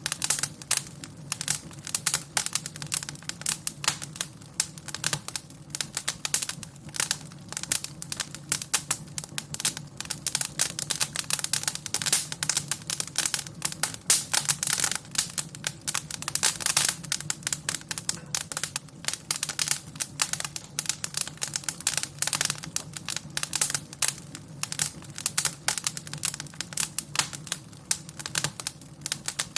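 Wood fire crackling in a fireplace: dense, irregular pops and snaps over a low steady rumble.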